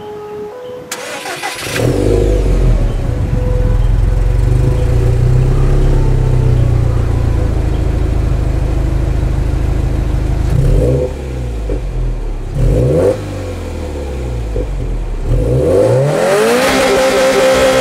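Subaru WRX STI's turbocharged flat-four boxer engine, heard at the exhaust tips. It starts up about a second and a half in and runs at a steady idle, then is blipped in a series of quick free revs near the end.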